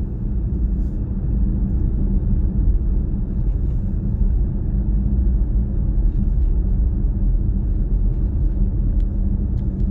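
A car driving at steady speed: a continuous low road rumble.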